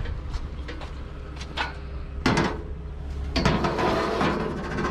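A rough metal trolley being handled and shifted: a few light knocks, a loud clank a little over two seconds in, then about a second of rattling and clattering near the end.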